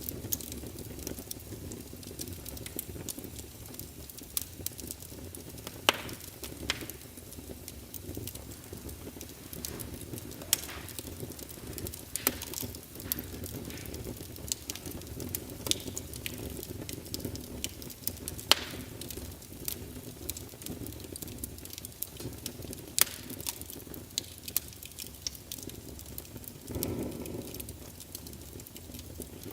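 Wood fire in a fireplace crackling, with irregular sharp pops and snaps over a steady low rush of burning. Near the end there is a brief, louder low surge.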